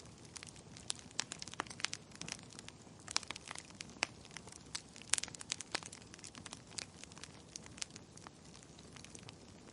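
Wood fire burning in a fireplace, with many irregular sharp crackles and pops over a soft steady hiss of flame.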